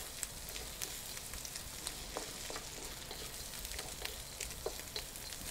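Bacon, onions and almonds frying in a wok: a steady sizzle with scattered sharp pops and crackles, and a wooden spatula stirring and scraping now and then in the pan.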